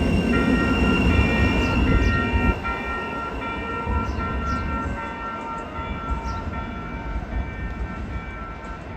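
Sacramento light rail train rumbling past, its low rumble dropping away about two and a half seconds in, while a warning bell rings in repeated pulses that slowly fade.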